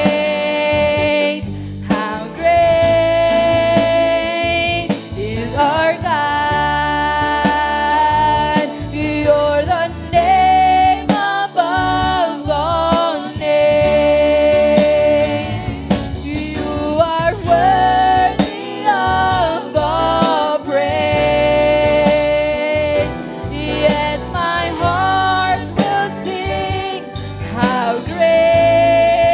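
Live gospel worship music: a lead voice sings long held and gliding notes over a church band.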